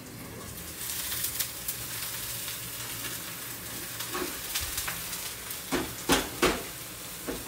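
Asparagus spears and egg sizzling in a hot non-stick frying pan, the frying hiss setting in under a second in. Several sharp knocks of the pan and utensils, the loudest two a little after six seconds in, as the pan is handled.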